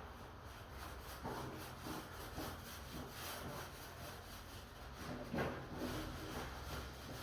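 Repeated rubbing strokes on a wooden door surface, about two to three a second, with one stronger stroke about five and a half seconds in.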